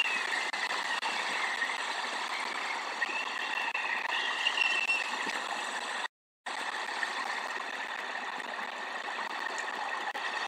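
Steady rain falling, an even hiss of water. The sound drops out completely for a moment about six seconds in.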